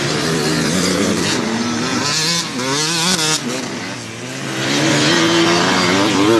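Racing motorcycle engines running hard, their pitch rising and falling as they rev, shift and pass, with a short lull about four seconds in.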